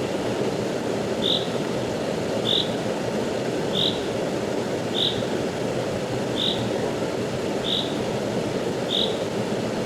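Rushing stream: a steady rush of flowing water. Over it, a short high call repeats about every second and a quarter, seven times.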